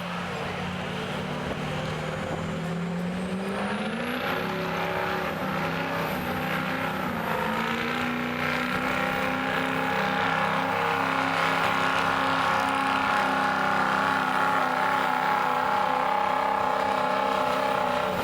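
Stock diesel pickup truck engine revving up about four seconds in, then running hard and steady under load as it pulls the sled, getting gradually louder. A high turbo whistle climbs with the revs.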